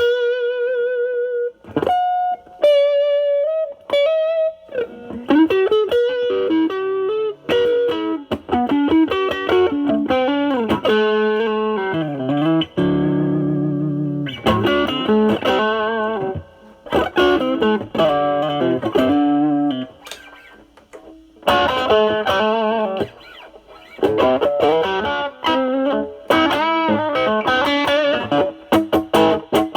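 Semi-hollow electric guitar through a Nobels ODR-1 overdrive pedal into a Marshall Valvestate amp's clean channel, played as improvised blues lead lines with string bends, held notes and a strummed chord about halfway. The overdrive is cleaned up to a light edge.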